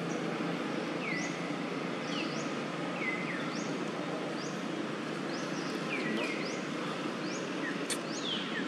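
Steady outdoor background hiss with a bird calling over it in short high chirps, each one sweeping quickly up or down in pitch, about one or two a second. There is a single sharp click near the end.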